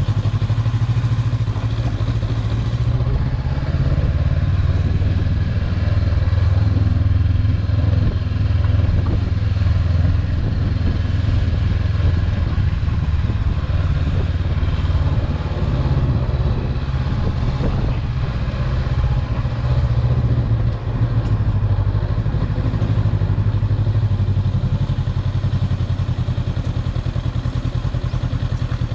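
Steady low hum of a vehicle's engine and road noise while driving along, with no marked changes in pace.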